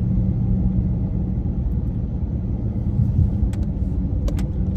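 Car driving, heard from inside the cabin: a steady low engine and road rumble. The car is close to stock, with only a drop-in K&N air filter, and its owner calls it quiet. A few faint ticks sound near the end.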